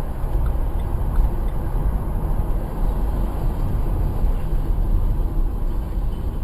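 Steady rumble of a vehicle driving: engine and road noise with no distinct events.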